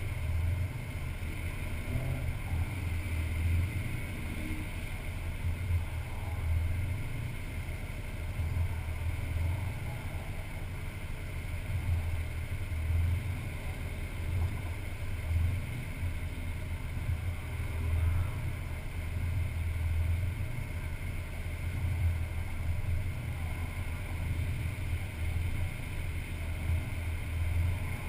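Low, uneven rumble of a stationary car idling, picked up by a camera mounted on the outside of the car, with wind on the microphone. No distinct events stand out.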